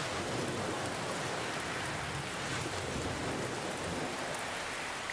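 Steady rain pattering down, mixed with the slow wash of ocean waves.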